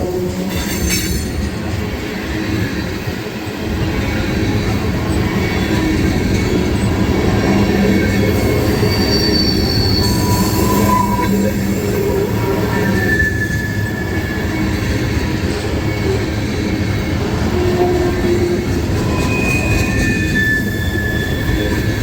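Loaded tank cars of a long freight train rolling past: a steady rumble and rattle of wheels on rail, with short high-pitched wheel squeals every few seconds.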